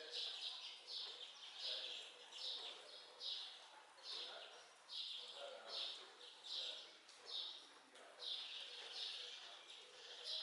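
A bird calling over and over, short high chirps at about two a second, over a faint steady hiss.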